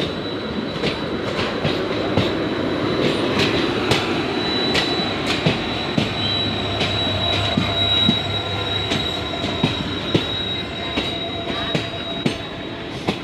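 Passenger train rolling through a junction, heard from a coach window: steady wheel-and-rail rumble with frequent sharp clicks as the wheels cross rail joints and points, over a thin, steady high-pitched wheel squeal that fades near the end.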